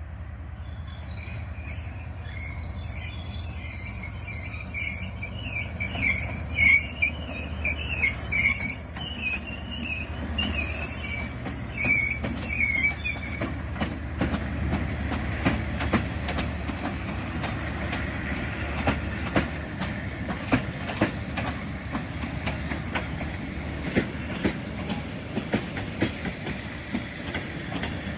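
A D19E diesel-electric locomotive and its passenger train passing, with a steady low diesel rumble throughout. A high wavering wheel squeal runs through the first half and cuts off suddenly. After it, the wheels clatter over the rail joints.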